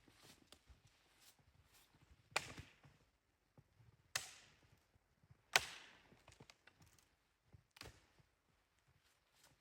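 Wood being chopped: four sharp strikes spaced about one and a half to two seconds apart, with smaller knocks in between.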